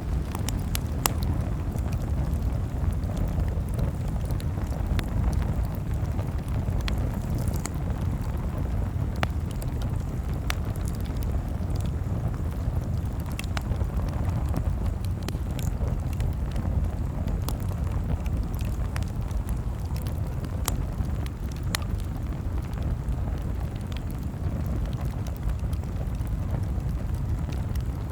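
Campfire burning, with sharp crackles and pops at irregular intervals over a steady low rumble.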